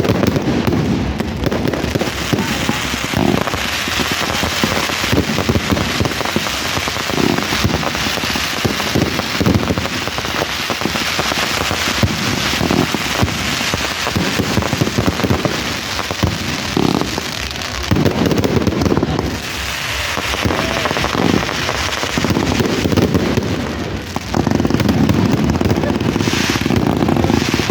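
Fireworks crackling in a dense, continuous shower of small pops, with a crowd's voices murmuring underneath and growing louder near the end.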